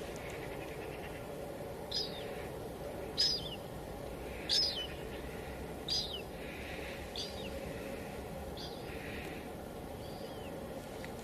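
Steady hiss of light rain (drizzle), with a bird calling repeatedly over it: seven short, high, downward-sliding chirps, one about every second and a half.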